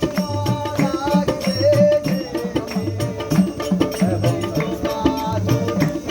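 Bengali devotional folk music: a hand drum plays a steady repeating rhythm under a held drone, and a melody slides and bends above it.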